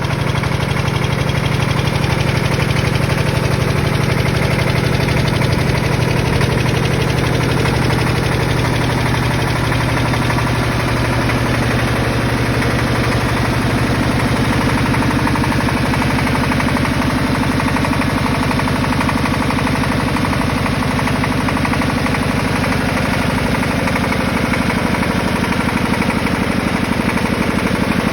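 1958 Porsche Diesel Junior 108L tractor's single-cylinder air-cooled diesel engine running steadily at idle, its note shifting slightly about halfway through.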